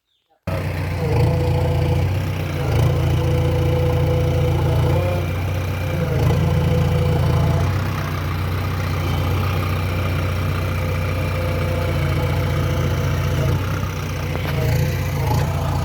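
Heavy diesel engine running steadily at low revs, starting abruptly about half a second in, its pitch shifting slightly now and then.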